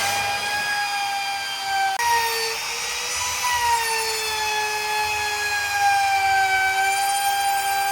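A power tool working wood, giving a steady whine whose pitch sags and recovers slowly as the load changes, with an abrupt jump in pitch about two seconds in.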